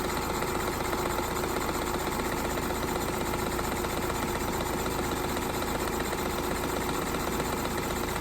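A Stevens Model Dockyard toy steam engine running steadily, with a fast, even beat over a steady hum.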